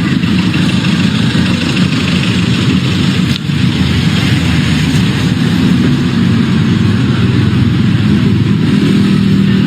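A vehicle engine running steadily close by, a low hum under road and street noise, with a brief drop about a third of the way through.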